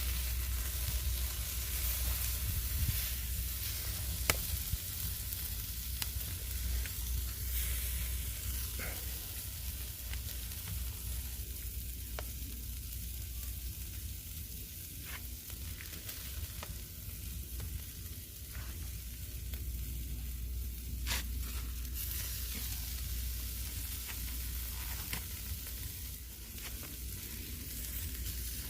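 Lamb ribs sizzling on a hot grill: a steady hiss with scattered sharp pops, over a low rumble.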